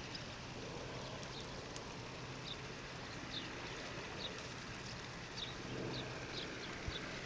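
A small bird chirping, short high falling notes repeated every half second to a second, over a faint steady low hum and outdoor background noise.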